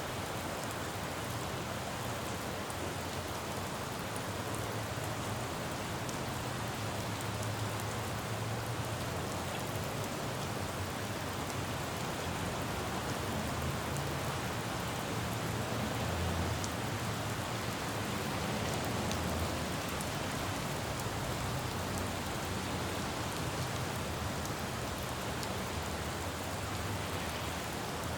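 Steady rain falling on a road, an even hiss, with the low rumble of passing traffic swelling and fading several times.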